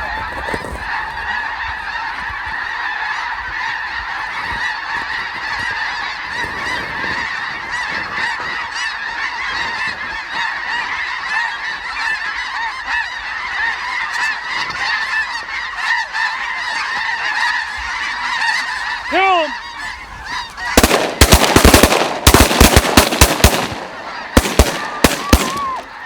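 A large flock of snow geese calling continuously overhead, a dense chorus of high honks. About 21 seconds in, shotguns open up in a rapid volley of many loud shots over a few seconds, with a few more shots near the end.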